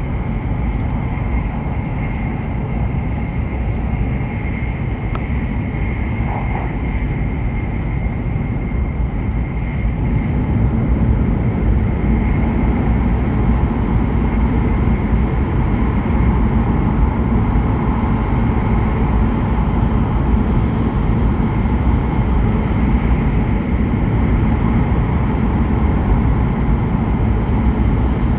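Passenger-cabin noise of an E7/W7-series Hokuriku Shinkansen train running at speed: a steady rumble and rush with a faint high whine, growing a little louder about ten seconds in.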